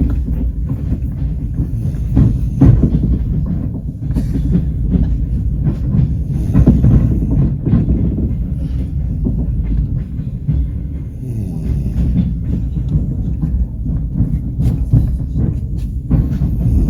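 Passenger train running at speed: a heavy low rumble with the clacking of wheels over rail joints.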